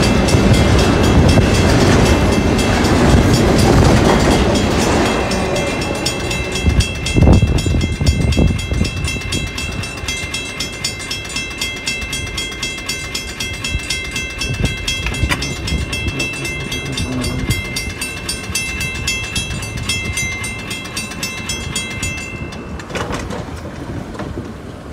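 A Union Pacific double-stack intermodal freight train rumbles past over a grade crossing, and its last cars clear about five seconds in. After that the crossing bell rings on at a steady, fast rate and stops a couple of seconds before the end.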